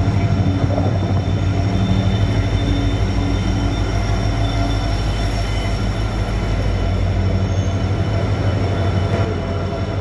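Indian Railways passenger coaches rolling slowly past along the platform as the train pulls into the station: a steady low rumble with thin, steady high-pitched squealing above it, easing slightly near the end.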